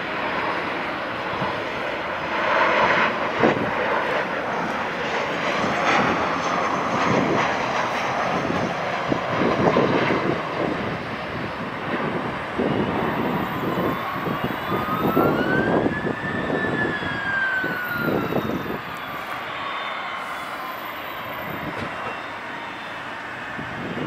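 Jet airliner on landing approach, its engines giving a steady loud rushing roar with a whine that climbs in pitch and then falls away as the aircraft passes, a little past the middle.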